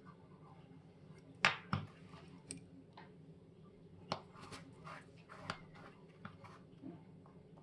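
Small metal tools clicking and tapping against watch parts during bench work on a mechanical chronograph, a scatter of light irregular clicks, the sharpest about one and a half seconds in.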